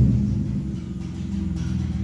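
1998 BMW 323is's straight-six engine idling just after being started, its level easing off from the start-up flare as it settles.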